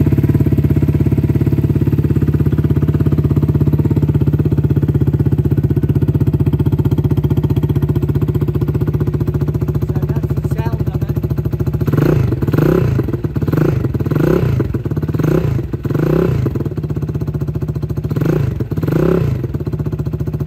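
Janus Halcyon 250 motorcycle's single-cylinder engine idling steadily on choke just after a cold start. About two-thirds of the way in, it is revved in a run of short throttle blips, roughly one a second, with a brief pause before a last two.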